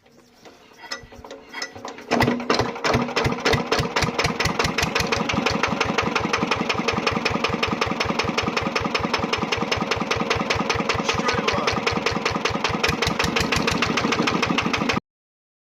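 Vintage British stationary engine being started: weak, uneven turning-over sounds, then it catches about two seconds in and runs with a rapid, steady, even beat. The sound cuts off suddenly near the end.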